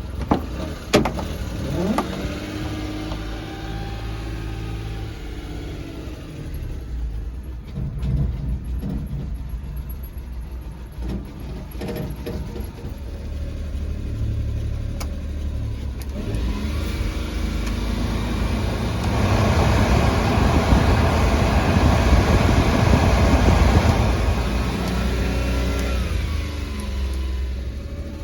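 Small three-cylinder engine of a 1995 Suzuki Carry kei truck running and revving, its pitch rising and falling several times. It gets louder and noisier for a few seconds about two-thirds of the way through, then winds down near the end.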